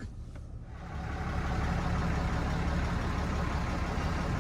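A motor vehicle's engine running steadily, a low rumble that grows louder about a second in and then holds.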